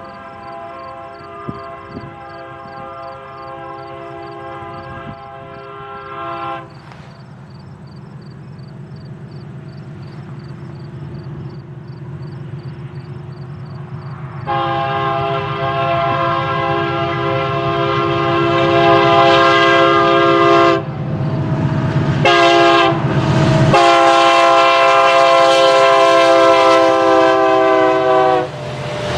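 Freight locomotive's multi-chime air horn blowing a crossing sequence: one long blast, a pause of about eight seconds, then another long blast, two short ones and a final long one, over the low rumble of the train. It grows steadily louder as the train approaches.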